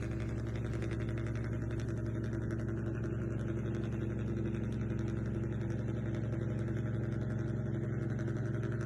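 Steady engine-like hum from a radio-controlled model vehicle, running evenly at one pitch with a fast, even pulse.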